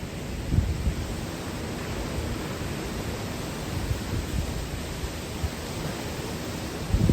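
Typhoon winds blowing in a steady rushing roar, with strong gusts buffeting the microphone about half a second in and again at the end.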